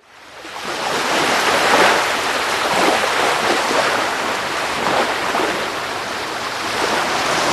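Rushing noise of sea waves, fading in over the first second, then swelling and easing every second or two.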